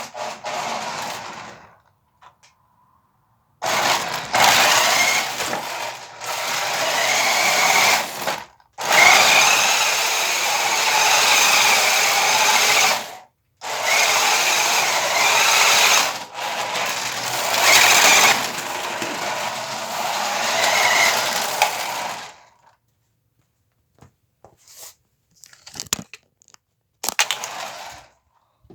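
RC drift car running in repeated bursts of throttle: a small motor whirring with a whine that rises and falls as the wheels spin, cutting out briefly between runs. Near the end only a few light clicks and knocks.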